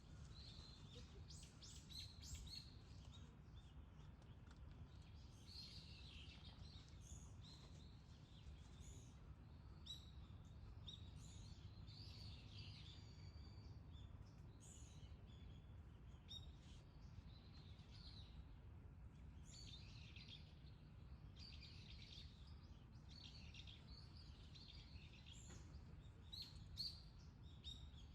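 Small birds chirping and calling faintly and irregularly throughout, over a low steady background rumble.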